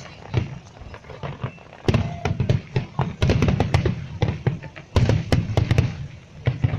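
Fireworks salute going off: a dense crackle of sharp pops and low booms, fainter at first and thickening into a rapid barrage about two seconds in, with a brief lull near five seconds before it builds again.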